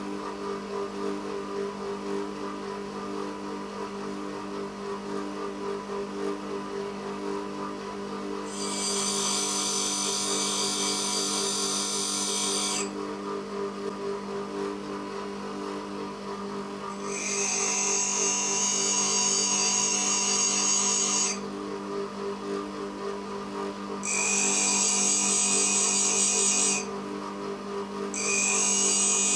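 A power grinding tool running steadily, with four spells of several seconds each of high, loud grinding as the steel drill bit is pressed against it to shape and sharpen it.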